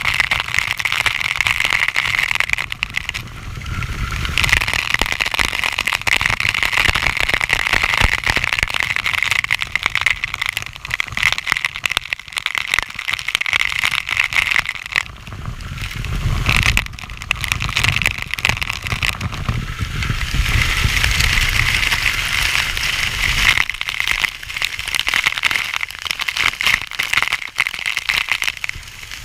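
Loud rushing and splashing of a waterfall heard close up, a dense crackling hiss that dips and swells several times.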